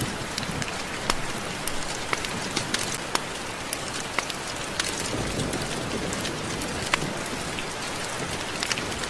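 Steady rain, an even hiss dotted with frequent sharp, distinct drip ticks of drops hitting a surface.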